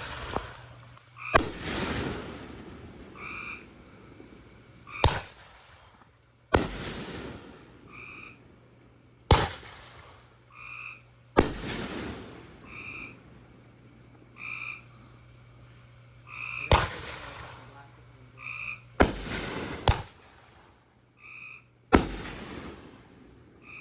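Consumer fireworks going off: about nine sharp bangs at uneven intervals, each trailed by a fading crackle. In the gaps, a frog croaks a short call every second or two.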